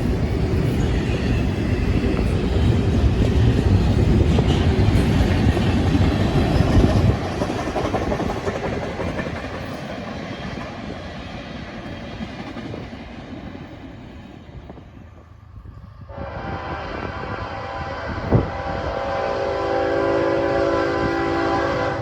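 A train rolling past, its wheels and cars rumbling loudly and then fading away over several seconds. About three-quarters of the way through, the sound changes abruptly to a locomotive air horn sounding a steady multi-note chord.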